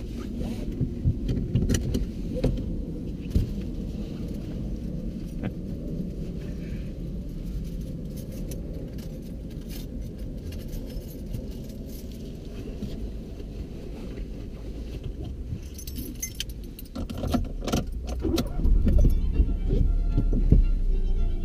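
Car engine idling, heard inside the cabin as a steady low rumble, with light rattling and clicks. The clicks and rattles get louder in the last few seconds.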